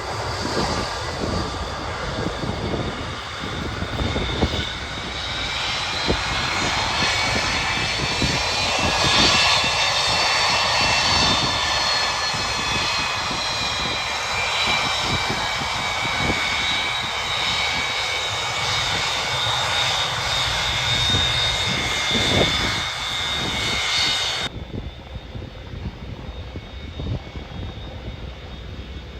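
Boeing 727-225F's three JT8D turbofan engines running loud, with a high whine that slowly falls in pitch over the noise. Wind rumbles on the microphone throughout. The highs cut off suddenly near the end and the sound drops to a quieter rumble.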